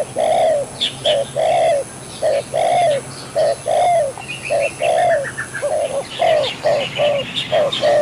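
Birds calling: a steady run of short, low, arched notes, two to three a second, with higher chirps over them.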